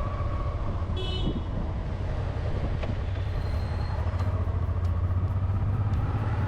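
Motorcycle engine running steadily on the move, with road and wind noise. A brief high-pitched sound cuts in about a second in.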